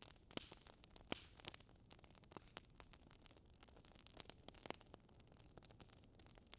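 Faint crackling of a wood fire in a fireplace: irregular small pops and snaps over a quiet hiss.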